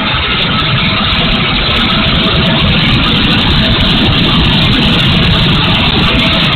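Twin 64 mm electric ducted fans of a radio-control A-10 running steadily at power: a loud, even rushing noise with a faint steady whine in it.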